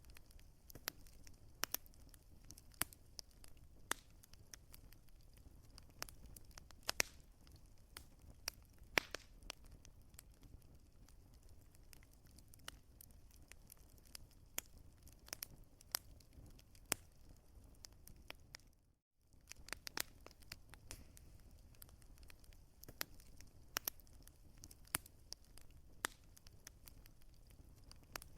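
Wood fire crackling, with frequent irregular sharp pops over a low steady rumble. The sound drops out completely for a split second about two-thirds of the way through.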